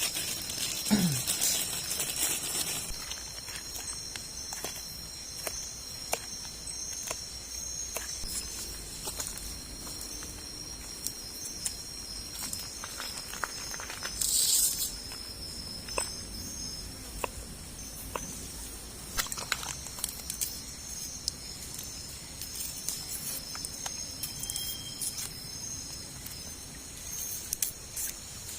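Insects buzzing in a steady high-pitched chorus, with scattered clicks and taps and a brief rustle about halfway through.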